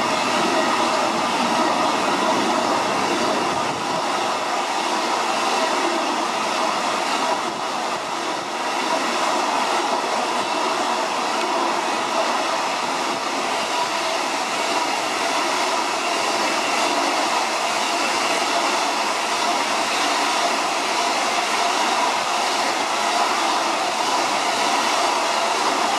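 Freight train of container flat wagons rolling past, with a steady, unbroken noise of wheels on rail.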